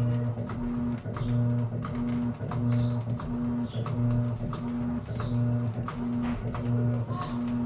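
Electrolux Essential Care top-load washing machine agitating: its motor hums in short, evenly spaced pulses, about one and a half a second, as the agitator swings back and forth, with water swishing and light clicks.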